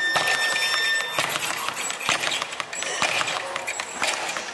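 Irregular thuds and slaps of sparring in a boxing gym, gloves landing and feet moving on the floor, with a steady beep lasting about a second and a half near the start.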